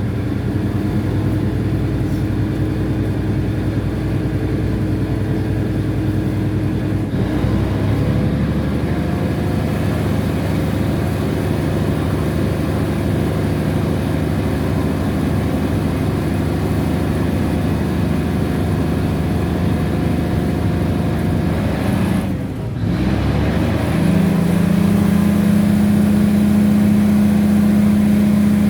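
A train's diesel engine running steadily with a low hum. Its engine note shifts about seven seconds in. It dips briefly about 22 seconds in, then comes back louder with a stronger, steady hum.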